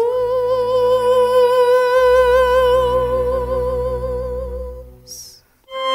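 A singer holds one long note with a wide vibrato over a low, sustained accompaniment in a Turkish song. The note fades out about five seconds in, and instruments come back in with new notes just at the end.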